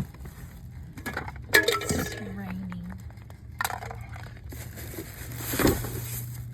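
Hard objects clinking and clattering: a sharp ringing clink about a second and a half in and another clatter a couple of seconds later, over a steady low hum.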